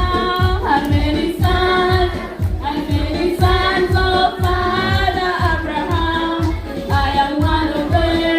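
A group of voices singing together, choir-like, over a steady low beat of about three strokes a second.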